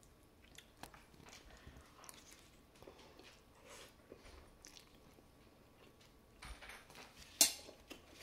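Close-up mouth sounds of a person eating jajangmyeon noodles: soft chewing with small wet clicks and smacks. A louder, sharp short noise comes about seven seconds in.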